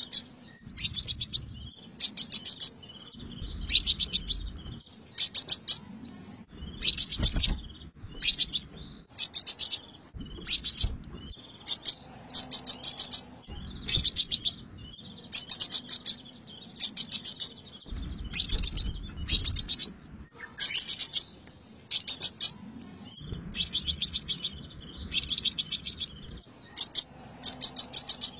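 Sunbird calling: short bursts of rapid, sharp, high chips, repeated about once or twice a second, with faint low rumbling underneath at times.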